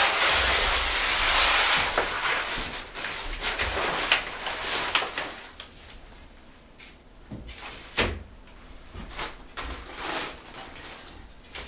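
Rustling and handling noises as a protective covering is spread over a dining table: a dense rustle for about the first two seconds, then scattered knocks and shorter rustles.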